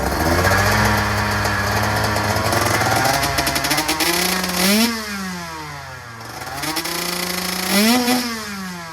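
2024 KTM 125SX TBI single-cylinder two-stroke engine breathing through a Pro Circuit R-304 Shorty silencer. It runs steadily at first, then is revved twice in the second half, each time climbing and dropping back. It is very loud.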